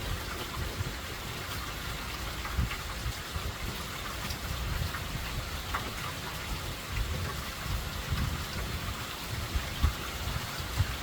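Steady rain from Hurricane Helene, with uneven low thuds beneath it and a sharper one near the end.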